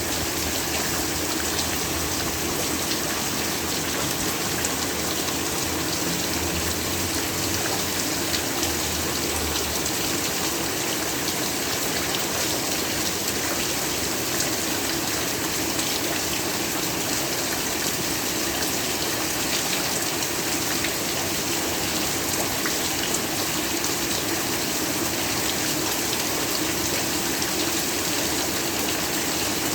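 Heavy rain falling steadily, an even hiss with scattered drop taps.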